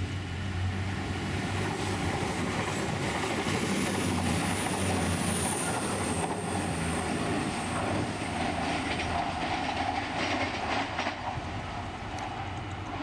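CrossCountry Voyager diesel multiple unit passing at speed: a low engine hum over loud wheel and rail noise, with a run of clicks from the wheels over the track late on.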